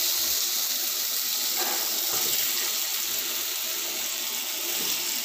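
Thin slices of yellow pumpkin sizzling in hot oil in a frying pan, a steady hiss.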